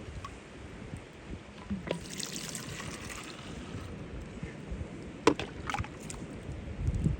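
Water splashing and sloshing during a car wash, with a brief hiss of spray about two seconds in and a couple of sharp knocks about five seconds in.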